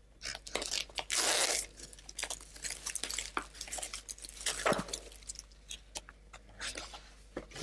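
Cardboard kit box being opened and handled: scattered taps and knocks, with a longer scraping rustle about a second in.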